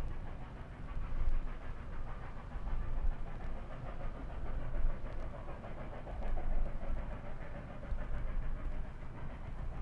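Steam locomotive working, its exhaust puffing over a heavy low rumble that swells and eases.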